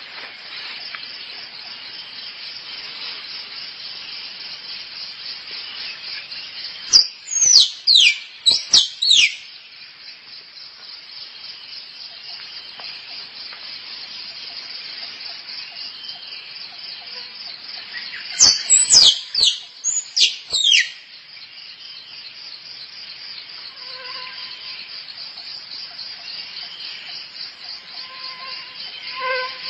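Squirrel calls: two bursts of sharp chirps, each sweeping steeply down in pitch, about seven seconds in and again about nineteen seconds in. They sound over a steady, pulsing high-pitched insect drone like crickets or cicadas.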